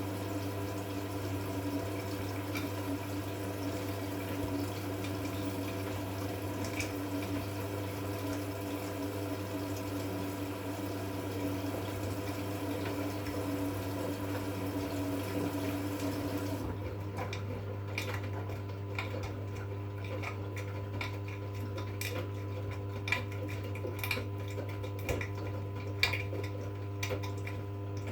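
V-Zug Unimatic SL washing machine running a 40 °C wash: water runs in with a steady hiss over a constant hum, the inflow cuts off suddenly about two-thirds of the way through, and then irregular light clinks and ticks come from the machine over the hum.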